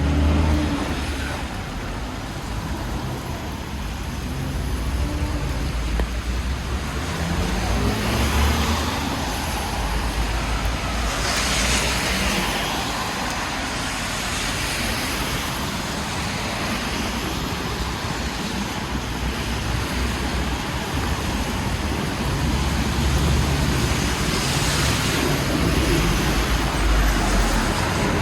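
Street traffic on a wet city avenue: a steady rumble of engines with tyre hiss, and vehicles swelling louder as they pass, about ten seconds in and again near the end.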